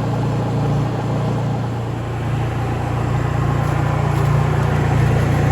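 Honda EU3000iS inverter generator's engine running steadily while it warms up after a cold-weather start, getting a little louder about halfway through.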